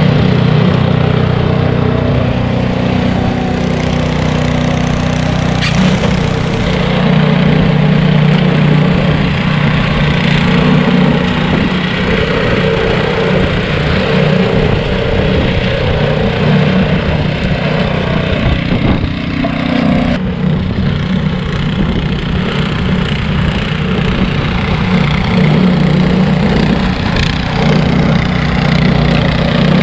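Bobcat T595 compact track loader's diesel engine running steadily under load, driving an SB200 snowblower attachment, with the engine note shifting a little now and then and a steady rushing noise over it.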